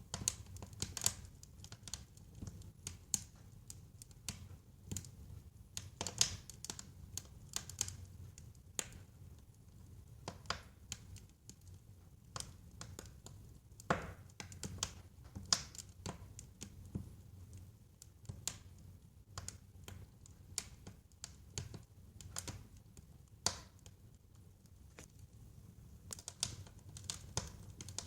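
Wood fire in a fireplace crackling and popping: irregular sharp snaps, some in quick clusters, over a low steady rumble of the burning logs.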